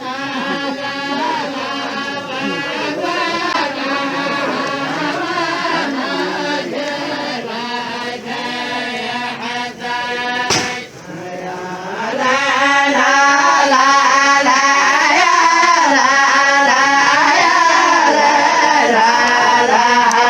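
A group of voices chanting together in a traditional Saudi tribal song (tarq, zamil-style chant). There is a brief break with a click a little past halfway, after which the chant comes back louder.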